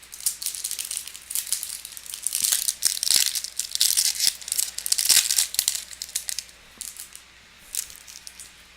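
Trading-card pack wrapper crinkling and tearing as it is opened and handled: dense crackling for about six seconds, thinning to a few scattered crackles near the end.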